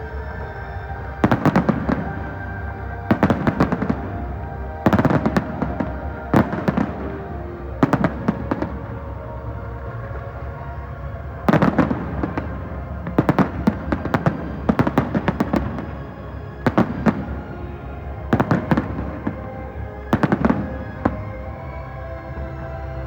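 Fireworks bursting overhead in quick crackling clusters of bangs, a new cluster every second or two. Music plays steadily underneath.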